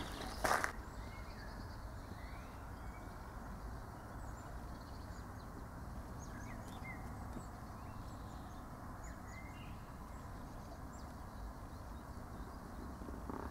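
Scattered faint bird chirps over a steady low background rumble, with a footstep on the path in the first second.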